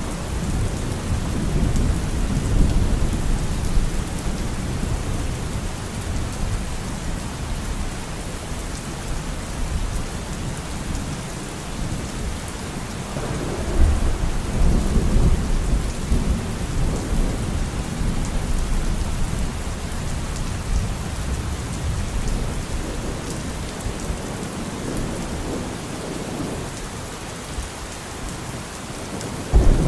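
Steady rain falling with low rolls of thunder rumbling beneath it, the strongest roll swelling about halfway through.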